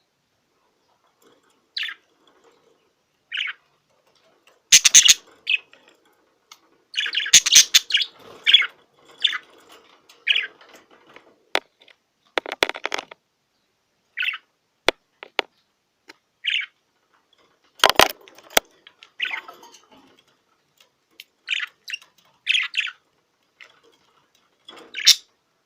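Budgerigar giving short, high chirps at irregular gaps, busiest a few seconds in, between sharp clicks and rustles.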